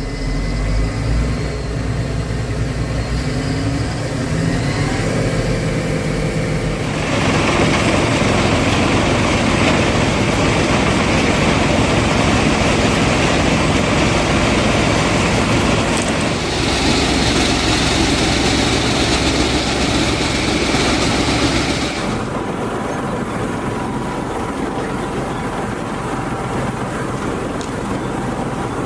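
Heizohack wood chipper driven by a Massey Ferguson tractor, running steadily, then chipping a load of branches for about fifteen seconds from about seven seconds in with a loud, dense shredding noise before dropping back to the machine running empty.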